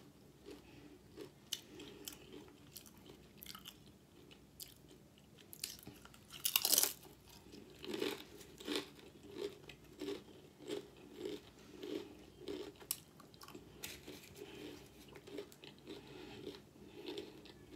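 Close-miked chewing and crunching of a roast beef sandwich and spicy Doritos tortilla chips, with small mouth clicks. A louder crunch comes about seven seconds in, then steady chewing at about one and a half chews a second.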